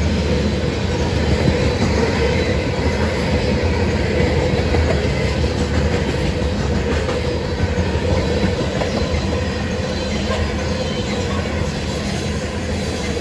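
CSX freight train rolling past, its wheels giving a steady rumble and clatter on the rails.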